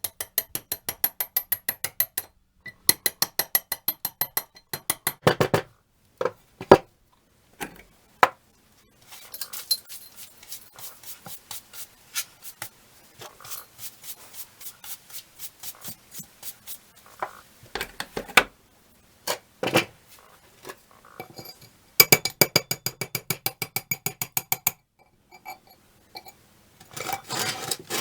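Fast, repeated metal-on-metal strokes on the rusty monkey wrench, from a hand tool, about eight a second. Each stroke rings. They come in bursts of a few seconds with short pauses, and a quieter, denser run of strokes fills the middle.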